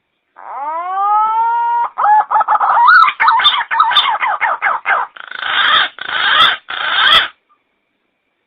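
Pink-necked green pigeon (punai gading) calling. It starts with a long rising whistle, breaks into a fast run of wavering, gurgling notes, and ends with three harsh rasping bursts.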